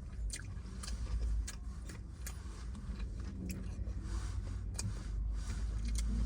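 Wet mouth clicks and lip smacks from chewing a burger, about seven irregular sharp ticks, over a steady low rumble inside the car.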